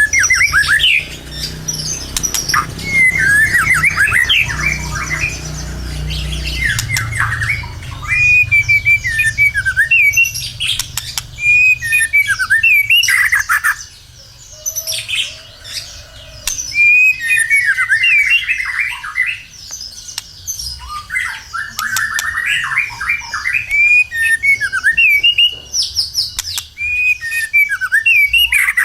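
White-rumped shama (murai batu) singing hard and continuously: rich phrases of quick whistles and rapid down-sweeping notes, repeated every two to three seconds. A low rumble sits under the first several seconds.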